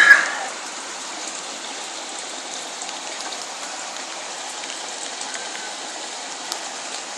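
Steady rain falling on wet ground, an even hiss that does not let up.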